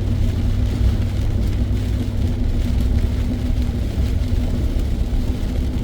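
Steady in-cabin noise of a car driving in heavy rain: low road and engine rumble with a faint steady drone, under an even hiss of rain on the car.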